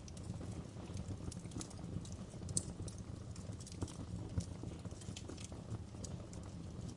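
Wood fire crackling: irregular sharp pops and snaps over a low, steady rumble of burning, with a few louder pops about two and a half and four and a half seconds in.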